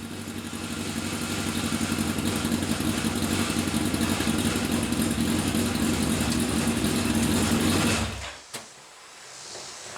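Legends car's motorcycle engine running steadily at raised revs, then cutting off abruptly about eight seconds in, followed by a single click.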